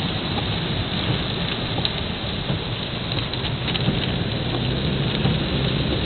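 Heavy rain falling: a steady, dense hiss with a low rumble underneath and a few faint ticks of drops.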